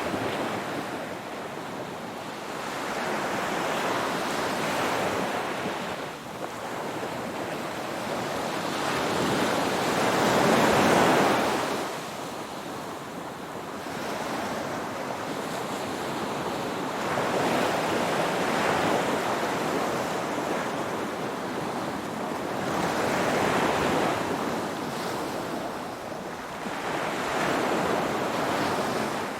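Ocean waves breaking and washing on the shore, swelling and ebbing every few seconds, with one larger wave about ten seconds in.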